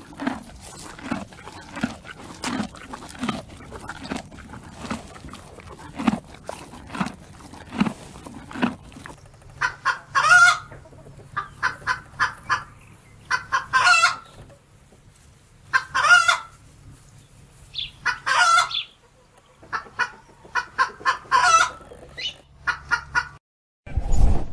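Rooster crowing about five times, a few seconds apart, with hens clucking in quick runs between the crows. This follows an abrupt change from low animal grunts, about one a second, that fill the first nine seconds.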